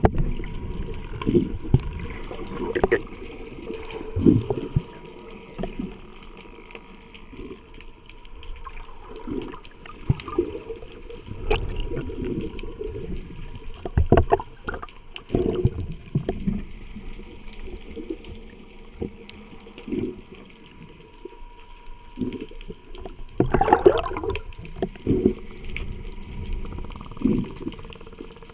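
Water sloshing and bubbling around a camera held in the sea, in irregular surges and knocks, the largest about two-thirds of the way through.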